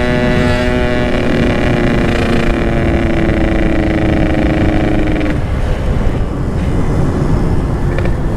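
Yamaha RX-King two-stroke motorcycle engine running with a steady note that slowly sags in pitch. About five seconds in the note drops away, leaving a rough rumble, and it picks up again near the end.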